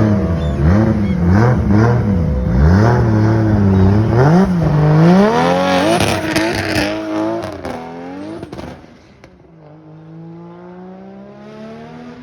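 A car's engine revving in a series of quick blips, then a longer, higher rev as it pulls away. It then fades as the car accelerates off into the distance, its pitch rising.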